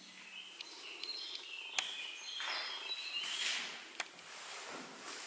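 Birds singing: a run of short, high chirping notes, with a couple of faint clicks and soft rustles.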